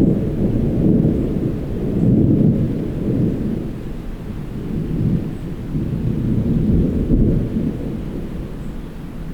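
Thunder rumbling in long rolling waves that swell and fade several times, following lightning.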